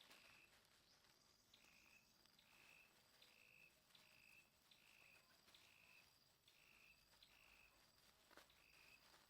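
Faint, regular high-pitched chirping from a small animal, short notes repeating about twice a second over quiet forest background.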